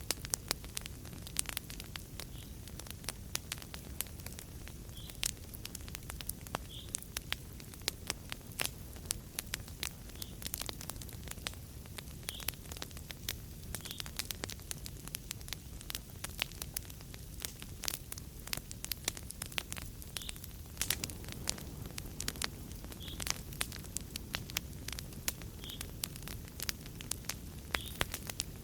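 Wood fire in a fireplace crackling, with many sharp irregular snaps and pops over a steady low rumble of flames.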